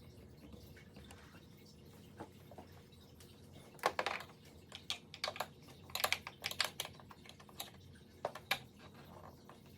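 Irregular light clicks and taps of a screwdriver and hands working on a printer's plastic housing, loosening screws.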